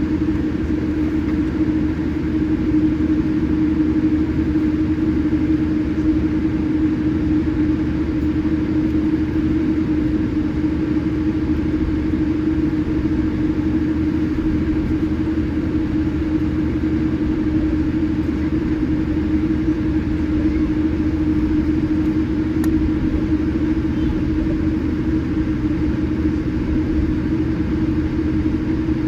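Steady cabin noise inside a Boeing 787-8 on the ground before takeoff: an even low rumble with a constant hum that does not rise or fall.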